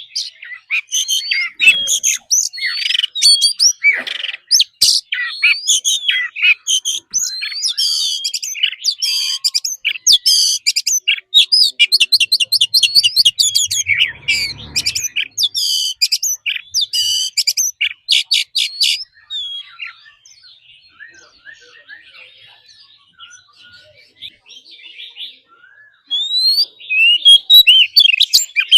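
Oriental magpie-robin singing a long, varied song of clear whistles and fast trilled runs. It turns quieter and sparser about two-thirds of the way through, then comes back loud near the end.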